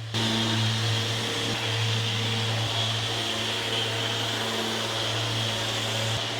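Electric power tool running steadily with a whirring, airy noise. It starts abruptly just as the sound begins.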